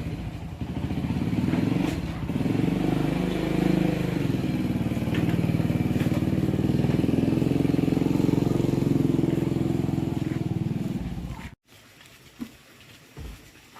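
An engine running steadily, which then cuts off suddenly about eleven and a half seconds in.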